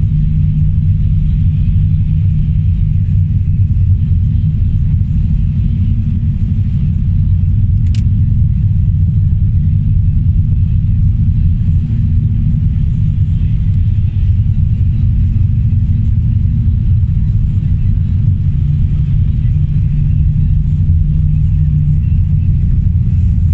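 Car driving, heard from inside: a steady low rumble of engine and road noise, with a single sharp click about eight seconds in.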